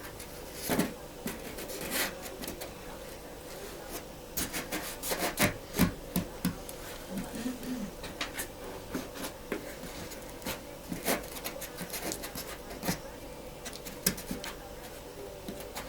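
Irregular taps, knocks and rubbing of hand work on wood-based panels, with a steady faint hum underneath.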